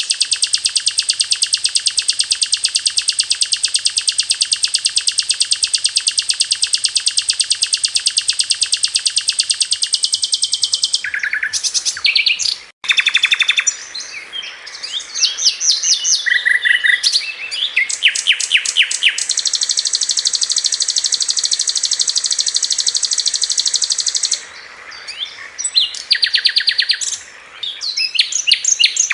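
Sikatan londo flycatcher singing its "tembakan" song: long, very fast runs of high repeated notes, broken by shorter varied phrases, with abrupt splices where the recording is edited.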